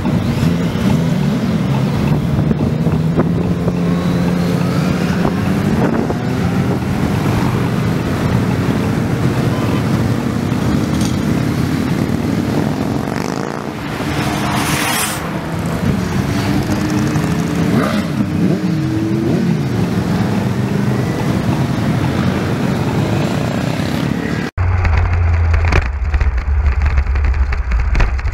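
Several motorcycle engines running together, their pitches rising and falling as they rev, with a short hiss about halfway through. Near the end the sound cuts abruptly to one steady low engine drone.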